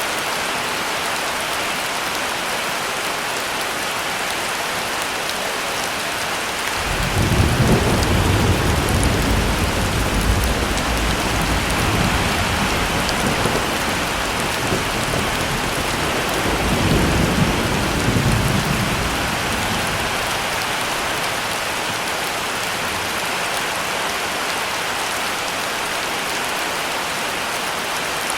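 Heavy rain falling steadily, with a roll of thunder that breaks in suddenly about a quarter of the way in, rumbles low for about twelve seconds with a second swell, then dies away under the rain.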